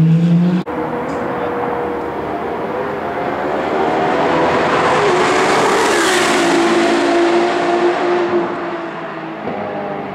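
Ferrari track car passing at speed: its engine note builds as it approaches, is loudest about six seconds in, then drops in pitch and fades as it goes away. The sound breaks off for a moment under a second in.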